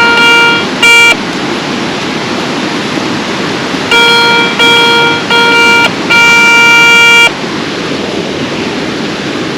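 Garrett Ace 250 metal detector sounding its steady electronic target tone over a metal target: two short beeps at the start, then four longer beeps about four to seven seconds in, the last over a second long. A steady rush of falling water runs underneath.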